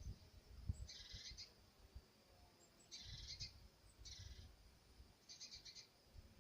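Faint bird calls at a feeder: four short, high, harsh calls a second or two apart, the last broken into a quick rattle.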